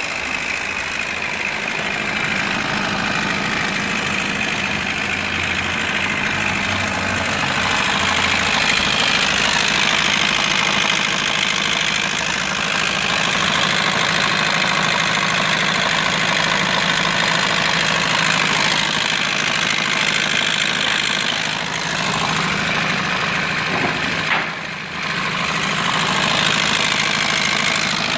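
Car engine idling with an abnormal noise, which the owner records as a sign of an engine fault. It dips briefly near the end.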